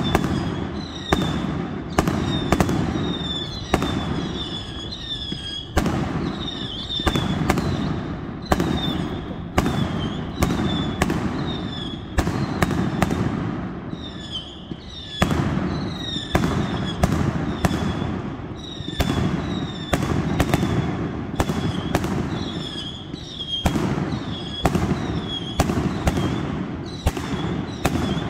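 A fireworks display going off: sharp bangs one or two a second, with short high whistles and a low rumble between them.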